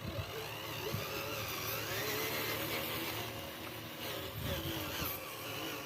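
Small electric motor and gearbox of a radio-controlled construction model whirring steadily, its pitch wandering up and down as the model is worked.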